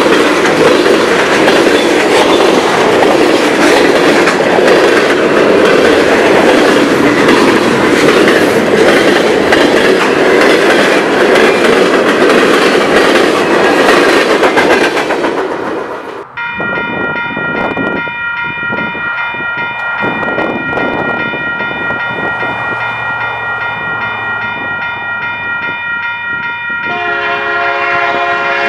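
Freight train cars rolling past close by, wheels clattering steadily over the rail joints. About 16 seconds in the rolling noise stops abruptly and a locomotive air horn sounds from an approaching train, a long chord that becomes fuller and louder near the end.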